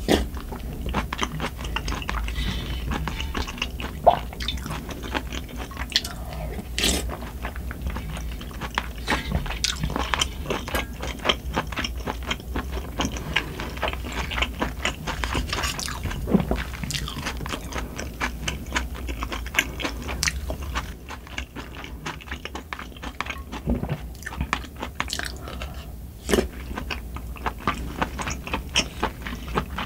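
Close-miked eating of spicy sundae gukbap: wet chewing of pork and Korean blood sausage, smacking, and sips of broth from a spoon, with many quick mouth clicks.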